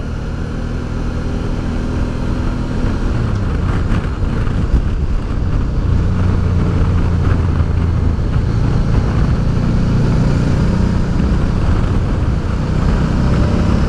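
Honda Deauville V-twin motorcycle engine running under way, with steady wind and road noise, growing louder over the first few seconds.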